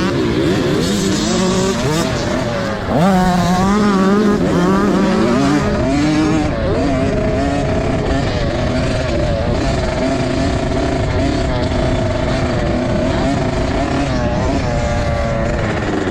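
Dirt bike engines revving on a motocross track, the pitch climbing and dropping again and again as the bikes rev and shift, with more than one engine heard at once.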